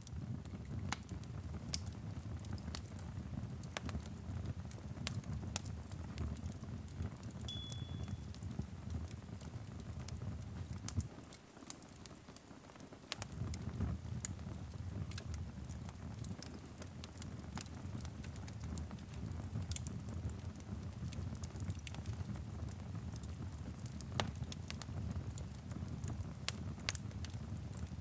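Wood fire in a fireplace crackling, with irregular sharp pops and snaps over a low steady rumble. The rumble drops away briefly about halfway through.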